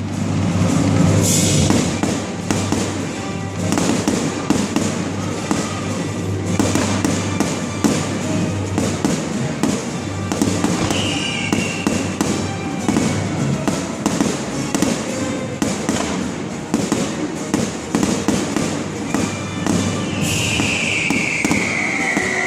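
Fireworks banging and crackling in rapid succession over loud music, with a falling whistle about halfway through and again near the end.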